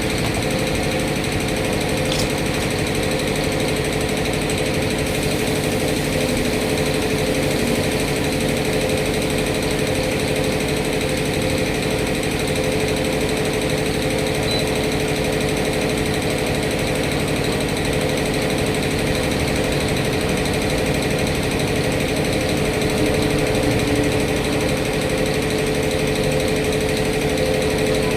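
An engine running steadily, with a rapid rattling pulse and a steady hum that do not change throughout.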